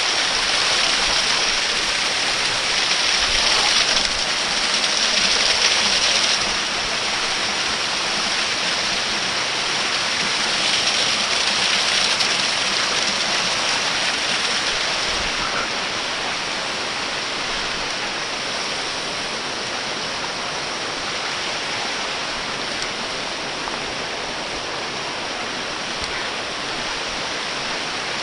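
Waterfall: a steady rush of falling water, swelling a little in the first few seconds and again around twelve seconds in, then easing slightly.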